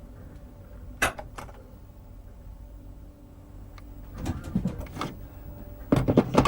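Cab of a Class 508 electric train on the move: a steady low hum, with two sharp clicks about a second in and a run of knocks and clatter building toward the end.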